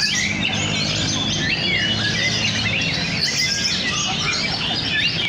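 Several oriental magpie-robins (kacer) singing at once, a dense tangle of fast, overlapping whistles and chirps with no break.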